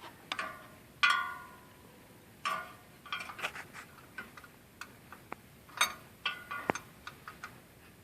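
Metal hand tools clinking as a 1/2-inch wrench and a screwdriver work on a fan clutch: irregular sharp clicks and knocks, several ringing briefly, the loudest about a second in.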